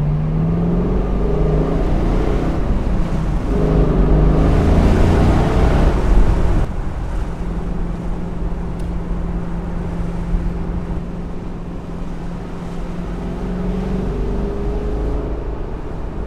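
Chevrolet Camaro's 6.2-litre V8 under way, its engine note rising twice as the car accelerates, then holding a steady drone that creeps slowly higher while cruising.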